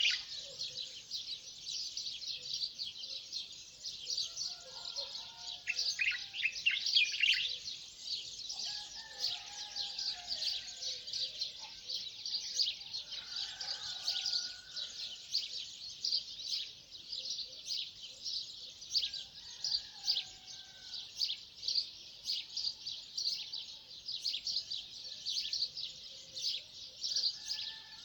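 A chorus of many birds chirping nonstop in a dense, overlapping chatter, with softer, lower calls coming in now and then.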